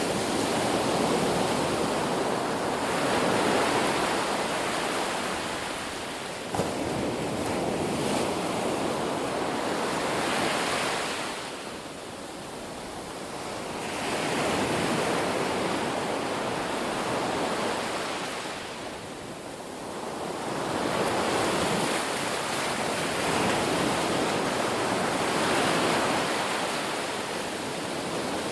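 Sea waves breaking and washing in, the rush of surf swelling and easing every several seconds. There is one brief click about a quarter of the way in.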